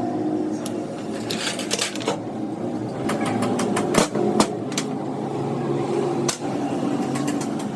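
Small motorcycle engine running steadily, with sharp metallic clicks and taps over it at irregular moments, loudest about four seconds in.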